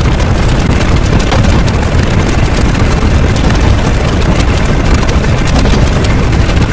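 A loud, steady rumbling noise, heaviest in the low end, with no clear pitch or rhythm.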